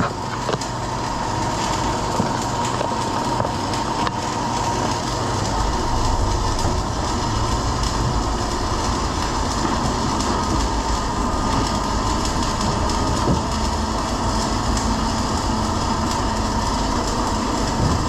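Continuous loud machine noise from metalwork on the steel hull, a dense steady rattle and hiss with a constant tone running through it.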